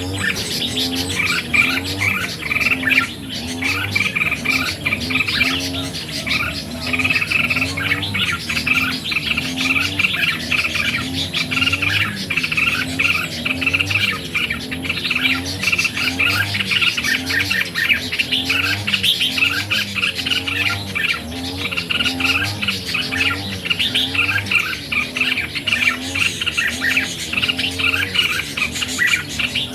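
Red-whiskered bulbuls singing: quick, repeated chirping phrases without a break, over a low, evenly repeating rhythmic pattern. It is the kind of bulbul song played to caged birds to get them excited.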